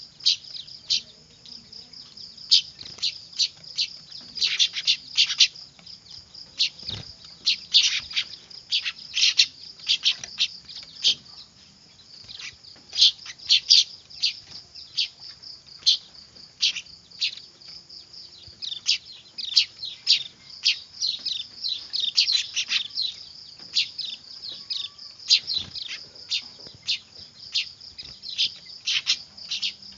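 Weaver bird (manyar) chicks calling noisily: many short, high, downward chirps overlapping almost without pause, over a steady high note.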